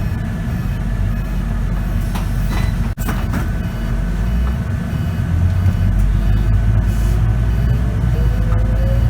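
Scania K94UB bus's diesel engine and ZF automatic transmission running while the bus drives, a steady low rumble. From about seven seconds in, a whine rises steadily in pitch as the bus picks up speed.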